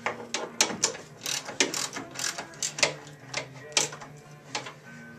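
Lag screws being tightened down through a waterer housing into a 2x4 with a wrench: a run of sharp, slightly irregular metallic clicks, about two a second.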